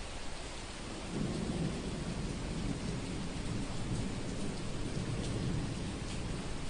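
Steady rain with a long low roll of thunder that builds about a second in and rumbles on for several seconds.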